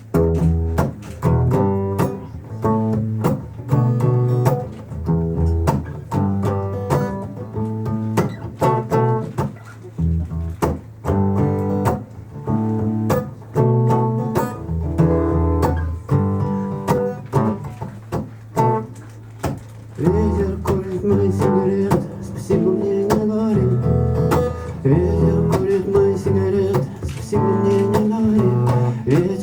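Live acoustic band playing a song's instrumental introduction: plucked guitar over a deep string bass. About two-thirds of the way in, a held, wavering melody line joins.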